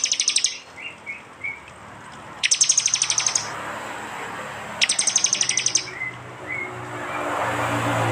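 A prenjak (prinia) giving its sharp 'tembakan' call: a rapid, dry, high-pitched trill of about a second, repeated three times about two and a half seconds apart, with a few short chirps between. A hiss swells near the end.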